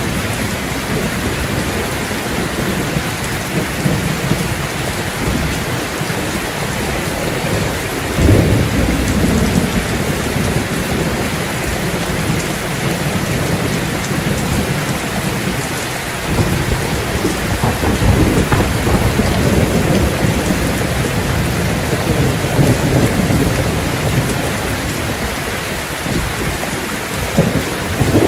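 Steady heavy rain pouring down, with long, deep rolling rumbles that swell in about a third of the way through and again past the middle.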